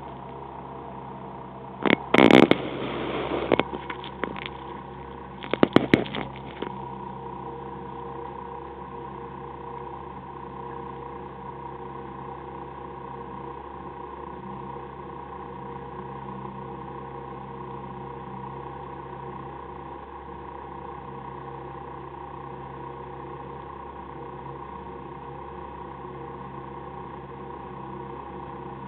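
Citroën AX rally car's engine idling steadily, heard from inside the cabin. Two bursts of loud knocks and rattles come in the first seven seconds as the in-car camera is moved and set in place.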